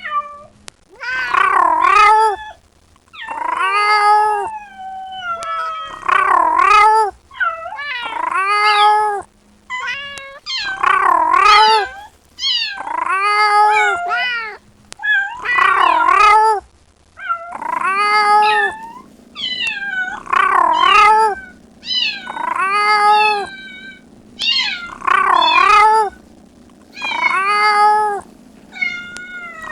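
Kitten meowing loudly and insistently, about one long call every two seconds, each call rising and falling in pitch: the crying of a kitten calling for its mother. A faint steady low hum sits underneath from about two-thirds of the way through.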